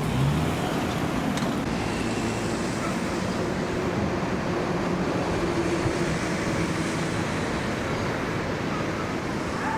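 Road traffic noise: vehicles running past steadily, with a low engine hum.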